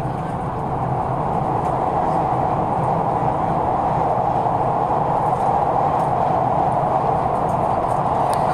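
Passenger train running at speed, heard from inside the car: a steady rushing rumble that slowly grows louder.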